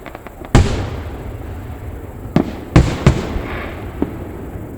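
Aerial firework shells bursting overhead: about five sharp bangs, the loudest about half a second in and a close pair near the three-second mark, each trailing off in a rolling rumble.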